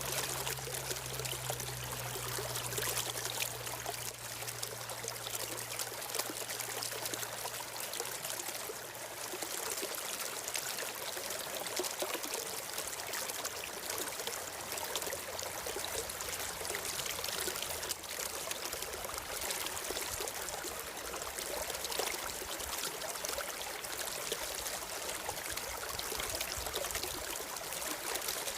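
Steady flowing water of a stream, an even continuous rush and trickle.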